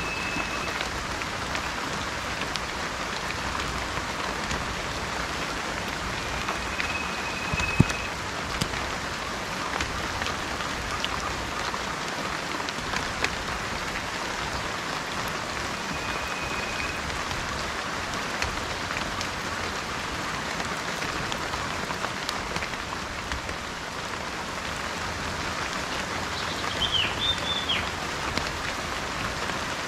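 Steady rain falling, with one sharp tap about eight seconds in. A bird gives three short, even whistles spaced several seconds apart, and a few quick chirps near the end.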